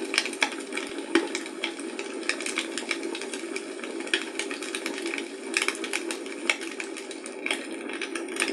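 Wood fire crackling in a fireplace: a steady hiss and flutter of flames with many irregular sharp pops and snaps.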